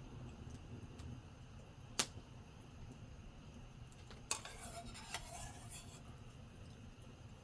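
Tableware clinking: one sharp click about two seconds in, then another click and a short, light clatter a little after four seconds, over a steady low background hum.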